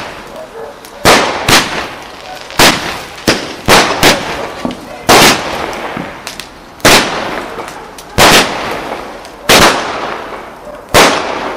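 Firework barrage going off: about a dozen sharp bangs, irregularly spaced roughly a second apart, each followed by a fading hiss.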